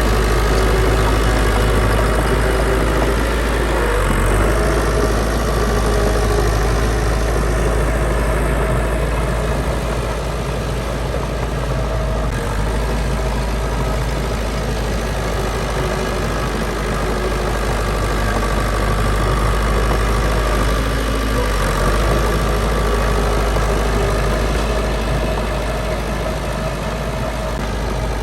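Heavy diesel engine of earthmoving machinery running steadily, with a deep continuous rumble.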